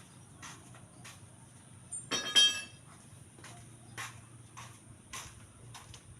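A single ringing metallic clink about two seconds in, among faint scattered taps and knocks.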